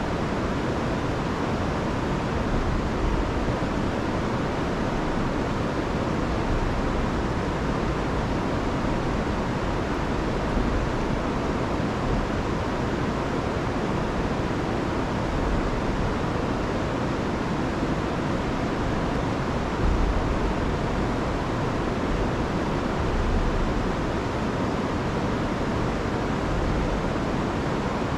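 Rain-swollen river rushing over a waterfall: a steady, unbroken rush of water, heavy in the low end.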